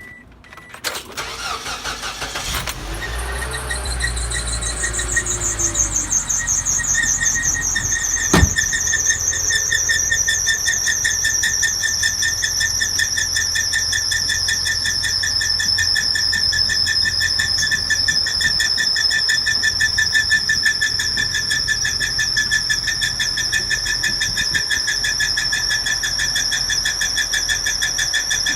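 A car engine starts, then a loud, high-pitched squeal comes from the engine. It slides down in pitch over the first few seconds, then holds steady with a fast waver over the low running of the engine: an abnormal engine noise. A single sharp click sounds about eight seconds in.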